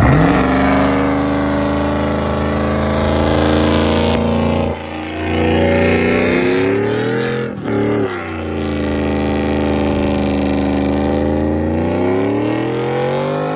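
Car engine revving hard and held at high rpm, its pitch climbing and falling, with two short drops in revs about five and eight seconds in.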